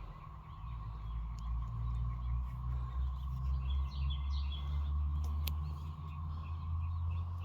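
Small birds chirping in short bursts around the middle, over a steady low rumble and a constant high hum.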